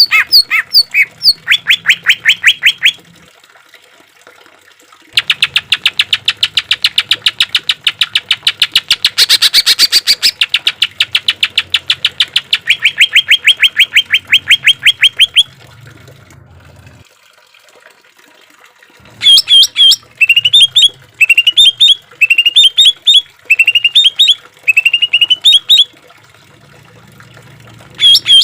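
Greater green leafbird (cucak ijo) singing: long runs of rapid, evenly repeated sharp notes, about ten a second, then after a short pause, brief bursts of quick rising chirps repeated about once a second.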